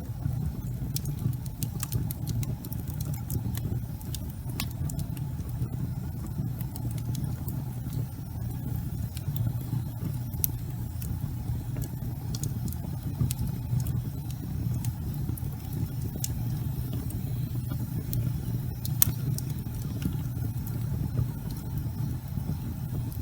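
Wood fire burning in a fireplace: a steady low rumble of flames with frequent sharp crackles and pops, a louder pop about ten seconds in and another near nineteen seconds.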